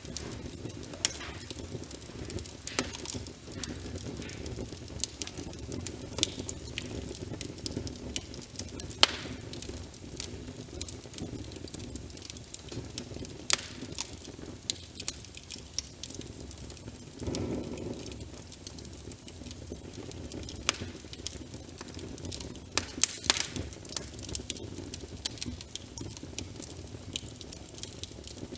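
Fireplace crackling, with sharp irregular pops and snaps over a steady low rush of fire and rain, and a short louder swell about seventeen seconds in.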